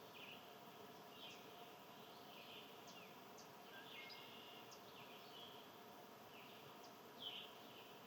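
Faint outdoor ambience with small birds chirping: short high chirps repeating about once a second, the clearest one about seven seconds in, over a low steady background hum.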